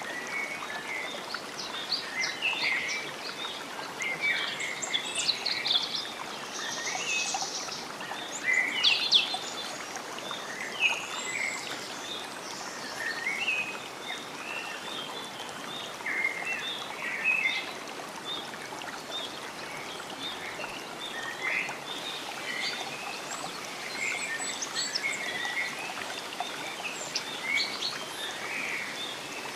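Many songbirds chirping and trilling, short calls overlapping throughout, over a steady soft hiss of running water.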